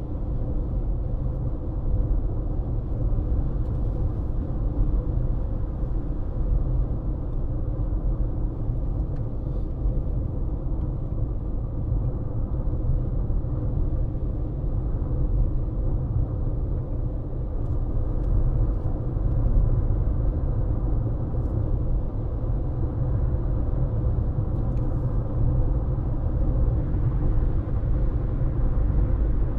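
A car driving steadily: a constant low rumble of road and engine noise, with a faint steady hum above it.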